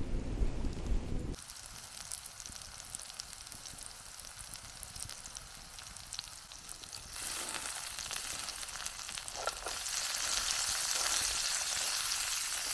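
Onions frying in a camp oven set on campfire coals, sizzling steadily, with the sizzle growing louder about seven seconds in. A brief low rumble comes at the very start.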